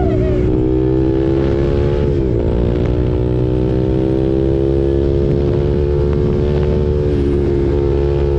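KTM RC 390's single-cylinder engine running through an SC Project aftermarket exhaust while riding at a fairly steady speed, with a brief dip in pitch about two seconds in before it picks up again.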